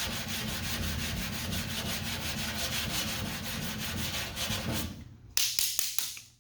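Sandpaper on a sanding block being rubbed back and forth over lacquer primer on a car body panel, in quick even strokes. The strokes stop about five seconds in, followed by a few short scrapes and knocks.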